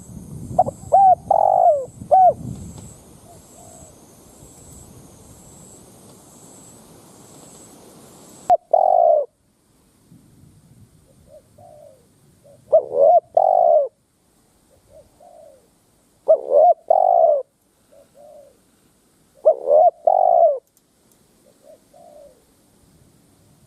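Spotted dove cooing: short phrases of a few coos, repeated every three to four seconds, with fainter coos in between. Just over eight seconds in, the background hiss and rumble cut off abruptly, as one recording gives way to another.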